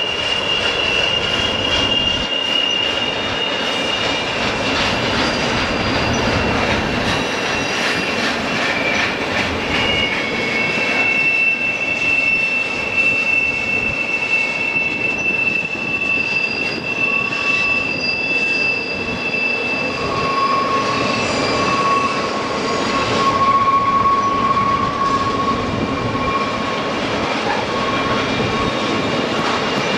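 Train running along the track, its wheels squealing against the rails: several long, high, steady squeal tones over a continuous rumble, with a lower squeal joining about two-thirds of the way through.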